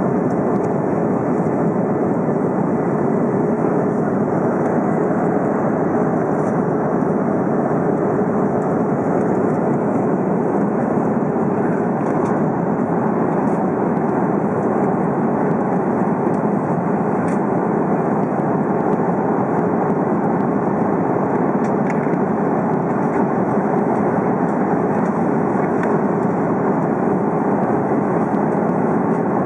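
Steady in-flight cabin noise of an airliner: an even rush of engine and airflow noise with a constant hum running through it.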